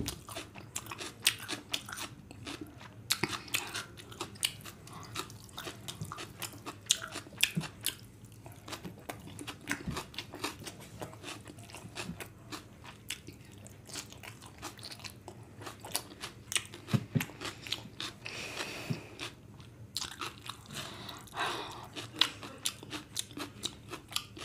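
Close-miked chewing of a mouthful of vegetable fried rice, a steady run of wet mouth clicks and smacks.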